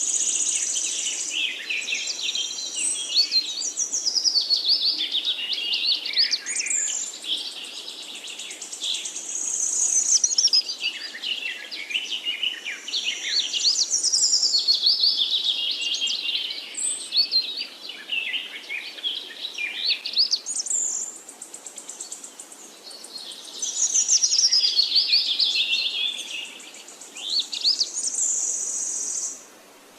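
A songbird singing long phrases of rapid, varied chirps and trills, several seconds each with short pauses between.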